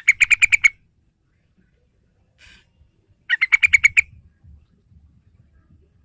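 Sooty-headed bulbul (trucukan) calling: two short bursts of rapid repeated chattering notes, about three seconds apart. This is a lure call meant to prompt young trucukan to answer.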